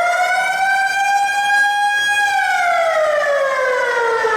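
A siren wailing. Its pitch holds high, then slides steadily down from about two seconds in.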